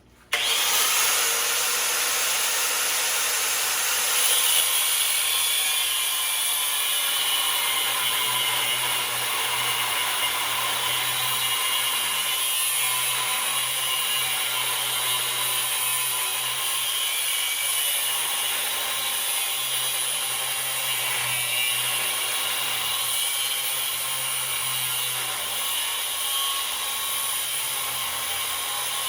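Angle grinder with a cut-off wheel cutting through metal stock along a scribed line. It starts abruptly and grinds on steadily without a break.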